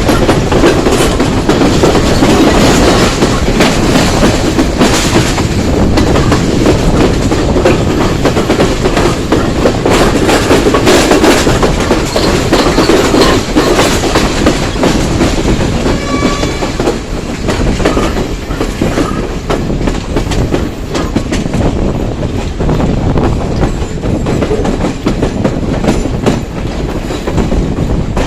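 Passenger train running along the track: a steady rumble and rattle of the carriages, with the wheels clicking over rail joints.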